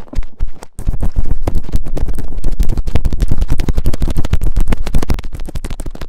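Close-miked ear-cleaning scratching: an earpick scraping and rubbing quickly and continuously inside a microphone's ear, a dense train of scratchy clicks with a low rumble.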